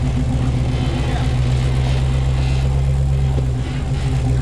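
Off-road 4x4's engine running steadily at low speed, its pitch holding even.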